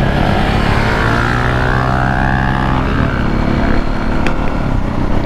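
KTM supermoto single-cylinder engine accelerating hard under wide throttle, its pitch climbing then dropping about three seconds in, followed by steadier running over wind and road noise, heard from on board the bike.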